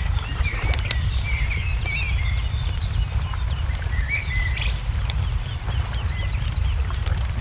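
Crackling wood fire snapping now and then, with small birds twittering in short phrases, over a steady low rumble.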